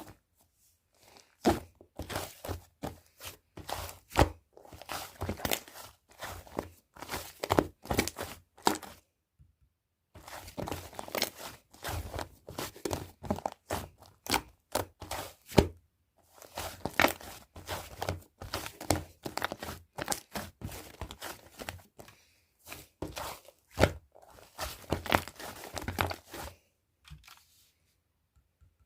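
Slime being squeezed, stretched and poked by hand, giving dense sticky clicks and pops in runs of a few seconds with short pauses between.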